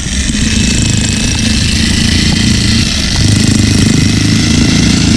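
Jackhammer hammering continuously in rapid strokes, breaking up rock.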